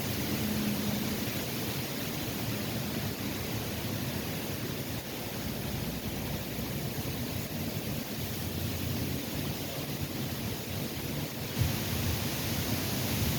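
Steady rushing of wind outdoors, with a low knock about twelve seconds in.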